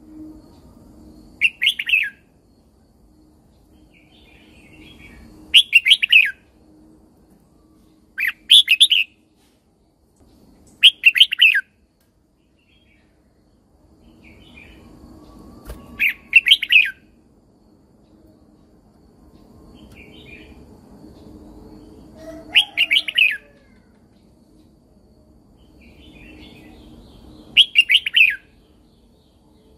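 Red-whiskered bulbul singing: seven short, bright warbled phrases, each about half a second long, a few seconds apart.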